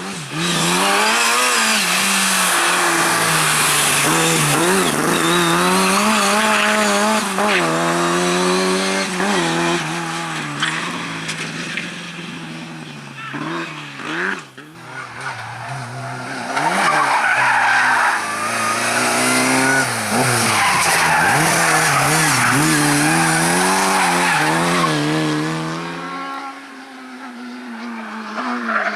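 Race car driven hard, its engine revving up and dropping back again and again through gear changes and corners, with tyres squealing. The engine falls away near the end.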